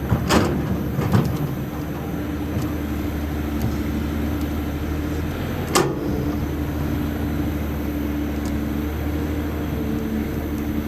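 Caterpillar 320D excavator's C6.4 ACERT diesel engine running steadily, with a sharp knock about a third of a second in, another at about a second, and a third near six seconds.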